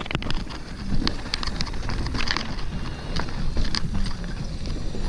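Mountain bike rolling along a dirt trail: steady tyre and wind rumble with scattered sharp clicks and rattles from the bike, and wind on the microphone.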